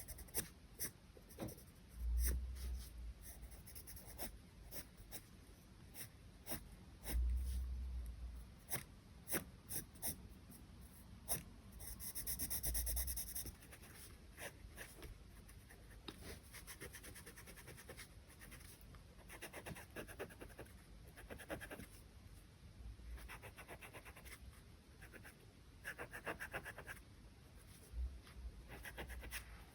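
Charcoal drawing on paper: irregular short scratching strokes and light taps, with a longer rubbing stroke about twelve seconds in and a few low thumps.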